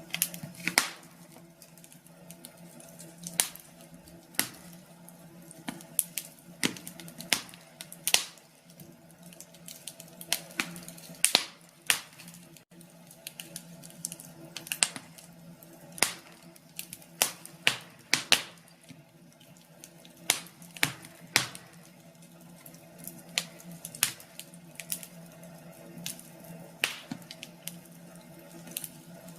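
Wood fire crackling, with irregular sharp pops, some coming in quick clusters, over a faint steady hum.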